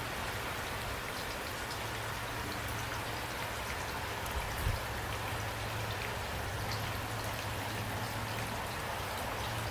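Steady rain falling, with scattered drops ticking on a surface and a single low thump about halfway through.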